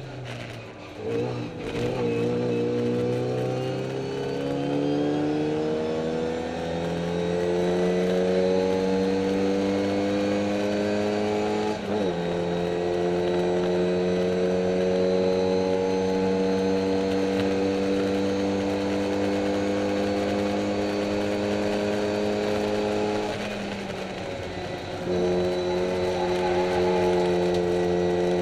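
Classic Mini race car's A-series four-cylinder engine at full throttle, heard from inside the cabin: the revs climb for several seconds, break briefly about twelve seconds in, hold steady, then ease off for a couple of seconds near the end before the throttle goes back on. The car is reported to be down on power.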